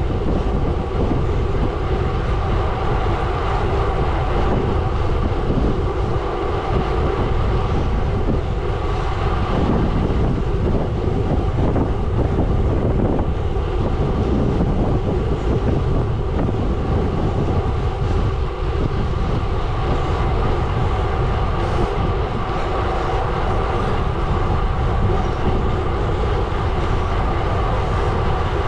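Gravel bike tyres rolling over a gravel road, a steady crunching rumble with a rattling clatter of loose stones.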